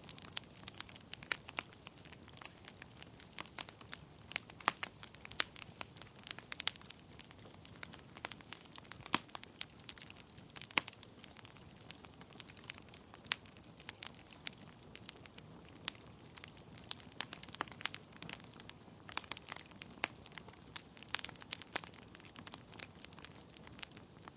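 Wood fire in a fireplace, burning logs crackling: many sharp, irregular pops and snaps over a steady low hiss.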